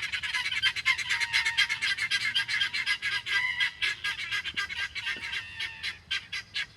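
A group of young chicks peeping rapidly and continuously in high-pitched chirps, thinning out near the end; the peeping is taken as a sign they are probably afraid.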